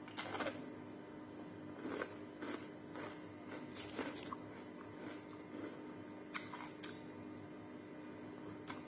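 Close-up mouth sounds of eating crispy fried galunggong (round scad): chewing, crunching and lip smacking, heard as a scattering of short clicks and crunches, over a faint steady hum.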